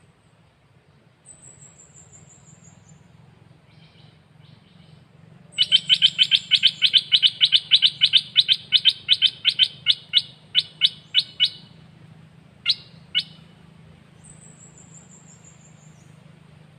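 Songbird singing: a thin high falling whistle, then a fast run of sharp repeated notes, about four or five a second, that slows toward the end, two more single notes, and another thin falling whistle. A faint steady low hum sits underneath.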